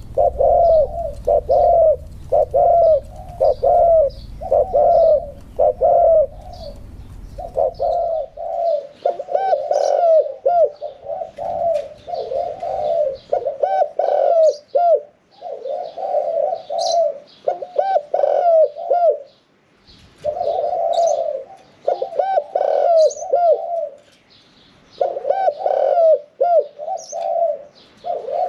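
Spotted dove cooing over and over in short repeated phrases. It is a song dove of the Thai 'one-kuk toss' song style with a medium-pitched voice.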